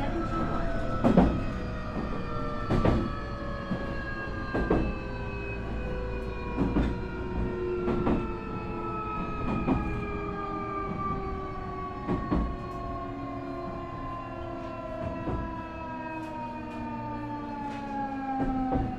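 Nankai 8300 series train's IGBT VVVF inverter and totally enclosed induction traction motors whining in several tones that fall steadily in pitch as the train slows under braking, heard from inside the car. Wheels click over rail joints every second or two.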